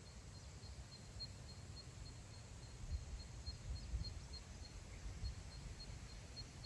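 Faint grassland wind rumbling unevenly on the microphone. Over it runs a steady high chirp, repeated about three times a second.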